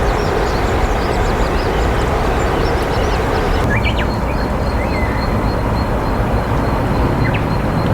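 Steady low outdoor rumble, with many short high-pitched bird chirps over the first three seconds and a few more bird calls later.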